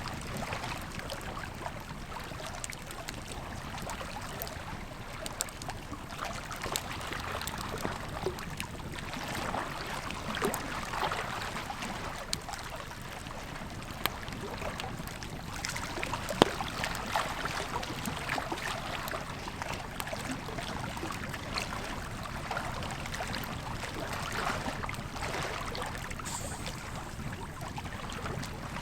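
Wood campfire crackling, with scattered sharp pops, the loudest about sixteen seconds in, over the steady rush of a river.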